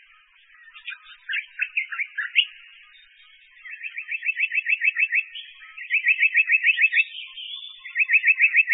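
A bird singing: a few scattered chirps, then three fast trills of rising notes at about nine notes a second.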